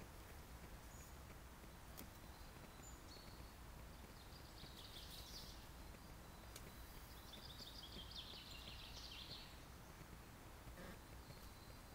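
Quiet woodland ambience: a songbird sings faintly in two short trilled phrases, about four and seven seconds in, over a low steady background noise.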